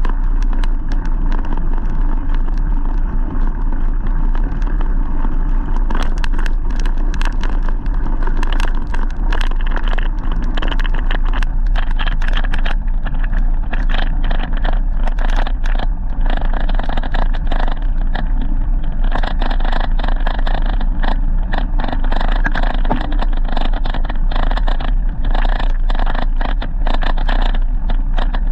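Loud steady rush of riding noise from a bike in motion, with wind rumbling low on the microphone and many short rattles and knocks from the bike and road surface throughout.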